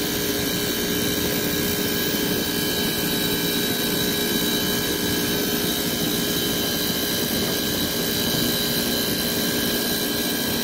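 Carrier commercial package unit running: a steady whir of its fans and machinery with a few steady tones, unchanging throughout.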